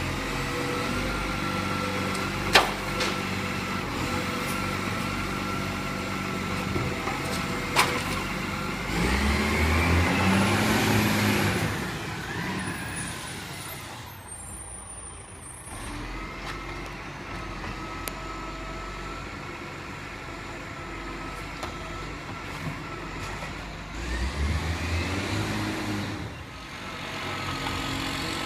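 Rubbish truck's diesel engine idling, rising in revs and settling back twice, with two sharp clicks in the first eight seconds.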